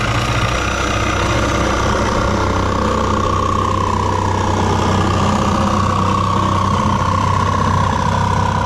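A loud engine or motor running steadily at a constant speed, with a high whine held above it that wavers slightly in pitch.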